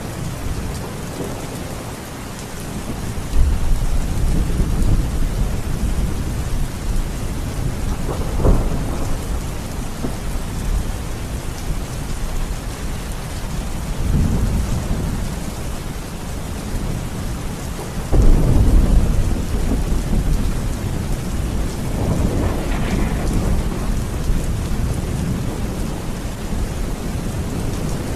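Steady heavy rain with rolls of thunder rumbling in every few seconds, one sharper crack about eight seconds in and the loudest rumble about eighteen seconds in.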